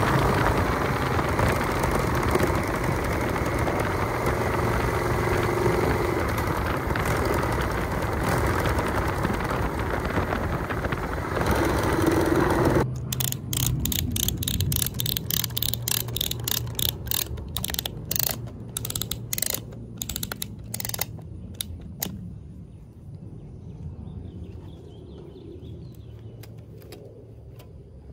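An engine running steadily with a low hum. About halfway through, the sound changes abruptly to a quieter hum with a run of sharp clicks and ticks that thin out and fade.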